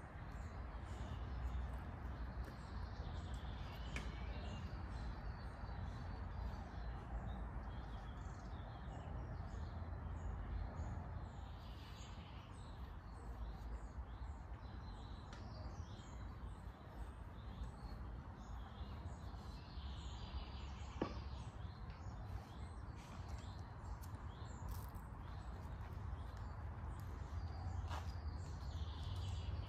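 Songbirds chirping and singing in the trees, many short calls throughout, over a steady low rumble, with a few faint clicks.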